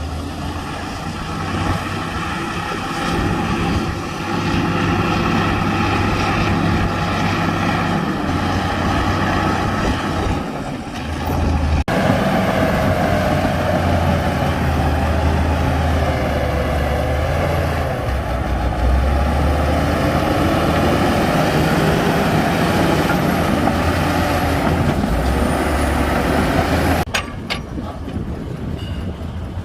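Heavy diesel earthmoving machinery working with a steady low engine sound, changing abruptly twice as the footage cuts. Through the middle stretch a wavering whine rides over the engine.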